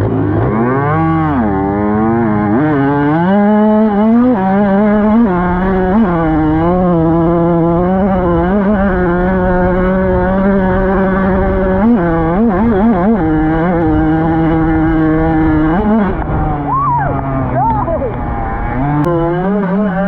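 Dirt bike engine running hard as it is ridden. Its pitch climbs over the first few seconds, then mostly holds steady, with a few brief dips and climbs as the throttle changes.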